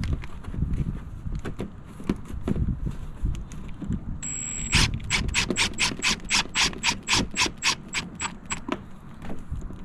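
Cordless power driver running screws: a short high motor whine about four seconds in, then a quick regular run of clicks, about five a second, each with the same whine, stopping about four seconds later.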